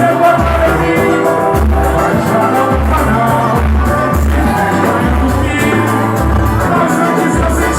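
Live samba played by a band, with singing over a bass line pulsing in a steady rhythm.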